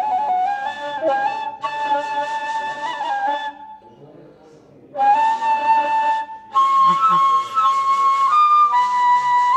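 Ney, the Turkish end-blown reed flute, playing a slow melody of long held notes that step up and down in pitch. It breaks off for about a second and a half near the middle, then resumes on higher notes.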